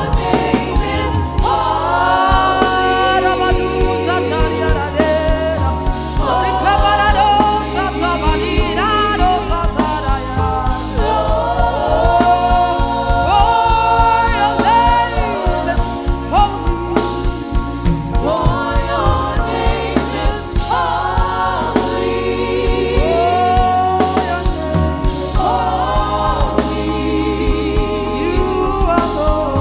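Live gospel worship music: voices singing a slow melody with vibrato, backed by a choir, over a band with a bass line that steps from note to note every few seconds.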